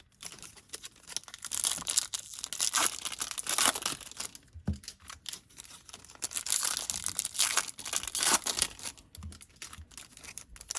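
Plastic wrapping of trading-card packs crinkling and tearing in short, irregular crackles as the packs are handled and opened, with a soft knock about halfway through.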